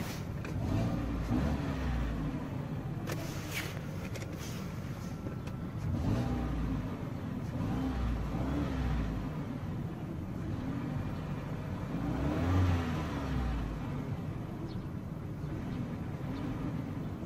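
Ford Focus 3 car running, its pitch rising and falling several times as if the engine were being revved.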